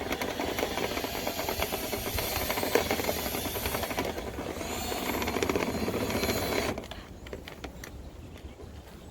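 Dryer vent cleaning brush on extension rods scraping and rattling inside the vent duct, a dense mechanical churning that cuts off sharply about two-thirds of the way through.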